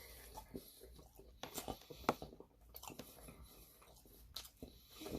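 A person chewing food close to the microphone: irregular mouth clicks and smacks, a few of them louder than the rest.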